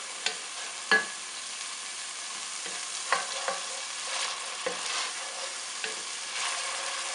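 Aderezo of chopped onion, garlic and chili paste frying in oil in a metal pot with a steady sizzle, while a wooden spoon stirs and scrapes through it. The spoon knocks against the pot a few times, most sharply about a second in.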